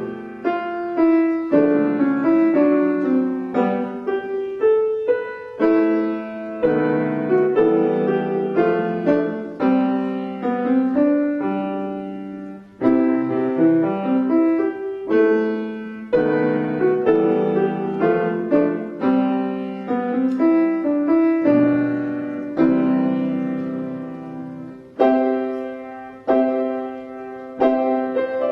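Solo piano playing a familiar tune, with chords and running melody notes struck and left to ring.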